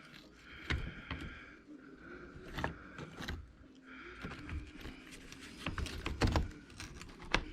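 Scattered light clicks and scrapes of small drivetrain parts of an RC truck being handled as its differential is opened up to check for a stripped gear.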